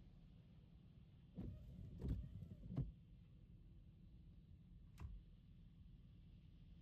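Car windshield wipers on a Tesla making one sweep across wet glass, with thumps at the turns and a rubbery squeak of the blades, over a low steady cabin rumble. A single sharp click comes about five seconds in.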